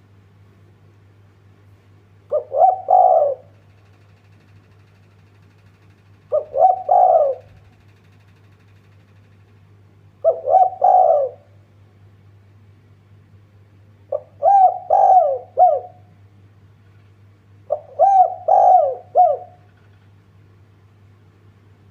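Spotted dove cooing: five short phrases of a few coos each, repeating roughly every four seconds, the later phrases a note or two longer, over a faint steady low hum.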